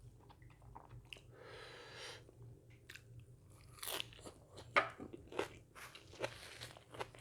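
A person eating close to the microphone: chewing with small wet mouth clicks, then a run of sharp crunchy bites in the second half, the loudest a little under five seconds in.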